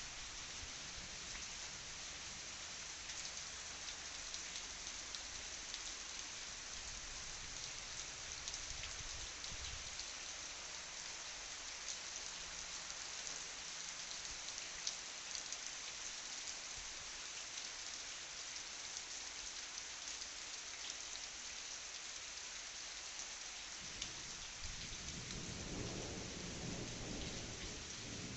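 Heavy rain falling steadily: a dense hiss with scattered ticks of individual drops. A low rumble swells near the end.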